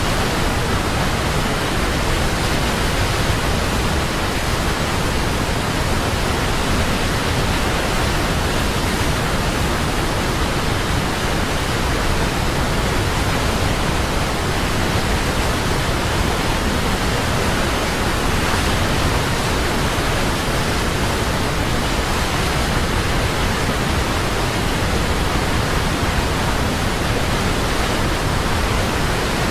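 Large waterfall: a steady, even rush of falling water, unchanging throughout.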